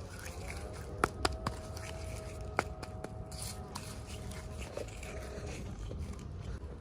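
Hands unboxing small plastic toys: a quick run of sharp clicks and taps about a second in, another click a little later, and light rustling of packaging, over a steady low hum.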